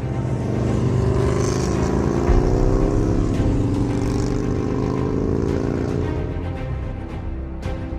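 A vehicle engine, its pitch gliding up and down from about one and a half to six seconds in, with background music throughout.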